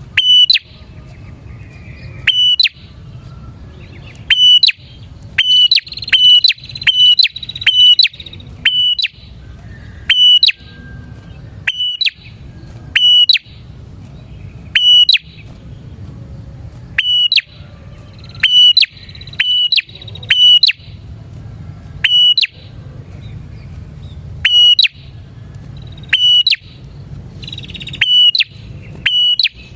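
Prinia (prenjak) singing loud, sharp chirping notes in short bursts, one every second or two, over a faint low hum.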